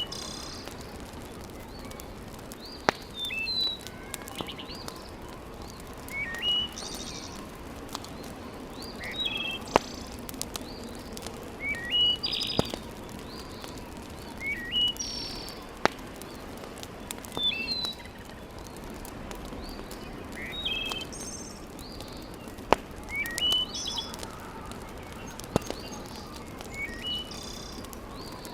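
Birds chirping in short rising phrases every few seconds over a steady background noise, with a few sharp single pops from a wood fire.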